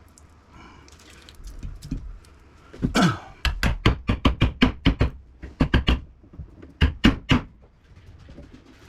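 Hammer blows on the metal housing of the air conditioner's electric motor: a fast run of sharp knocks starting about three seconds in, then two more a little later, as the motor is knocked apart to free its armature.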